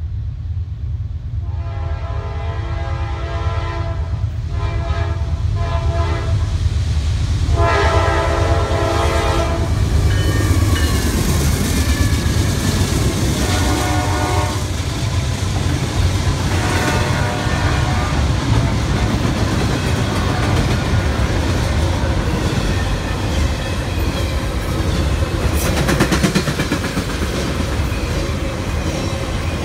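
Norfolk Southern intermodal train sounding its locomotive horn in about four blasts as it approaches a grade crossing, growing louder, then the diesel locomotives passing close by. After them the trailer-laden cars roll past with wheels clacking over the rail joints.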